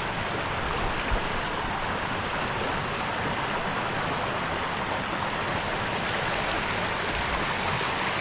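Fast stream water rushing steadily between boulders at the top of a waterfall, a continuous splashing rush, with a brief low thump about a second in.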